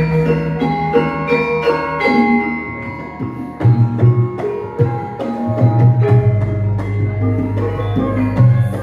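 Javanese gamelan ensemble playing: bronze metallophones ring out a steady run of struck notes, and from about halfway through a hand-played kendhang drum joins with repeated deep strokes.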